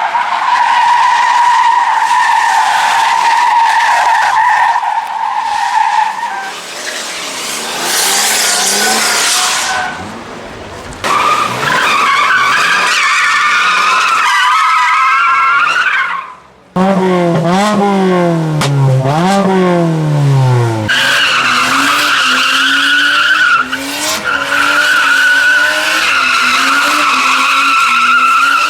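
Cars drifting: long, loud tyre squeals over engines held at high revs. About two-thirds of the way through, an engine is revved up and down several times in quick sweeps before the squealing resumes.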